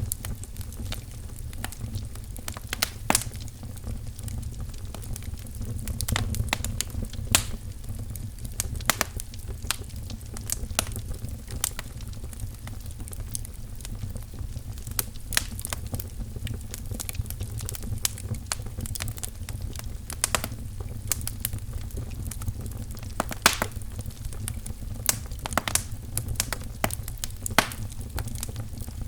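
Wood fire crackling in a fireplace: irregular sharp pops and snaps, several a second and some louder, over a steady low rumble of the flames.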